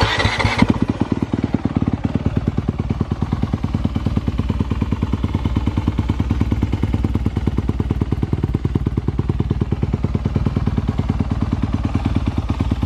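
Honda CRF250R dirt bike's single-cylinder four-stroke engine catches with a brief louder burst, then settles into a steady, even idle. It is starting up after sitting unused for a while.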